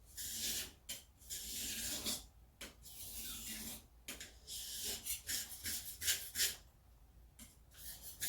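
Steel knife blade scraping across a wet whetstone in sharpening strokes: two long strokes of about a second each, then a run of shorter, quicker strokes from about four seconds in.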